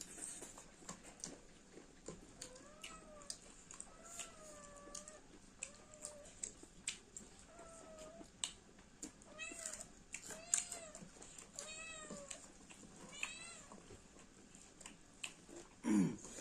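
An animal calling over and over: about ten short cries, each rising then falling in pitch, with many sharp clicks and crunches of close-up eating between them. There is a louder knock near the end.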